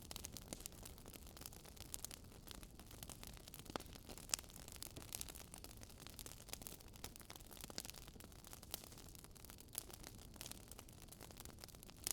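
Wood fire crackling quietly: irregular sharp pops and snaps over a soft steady hiss.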